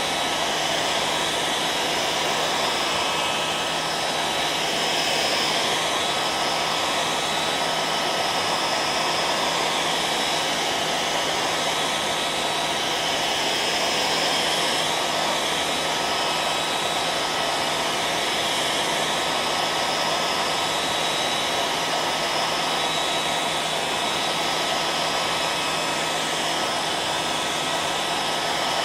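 Hair dryer running steadily: an even rush of blown air with a constant hum from its motor, unchanging throughout.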